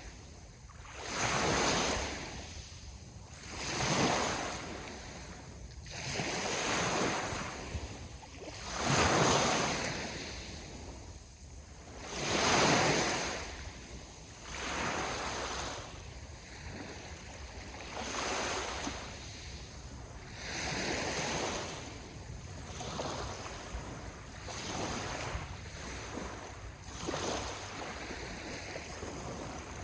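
Ocean waves, the surf swelling and falling away every two to three seconds, the biggest swells in the first half.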